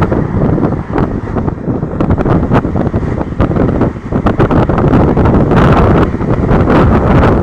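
Wind buffeting the microphone over the rumble of a moving train, with frequent short clatters and knocks.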